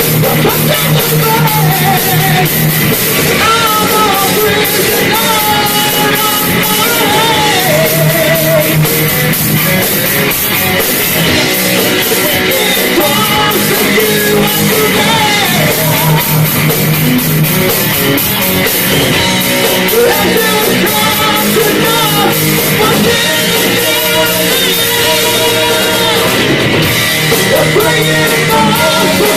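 Live metal band playing loudly without a break: drums, guitars and sung vocals.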